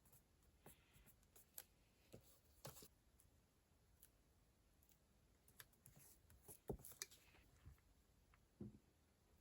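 Faint, scattered light taps, clicks and soft rustles of small stationery and a notebook being handled on a desk, with a couple of soft knocks, the loudest about two-thirds of the way through.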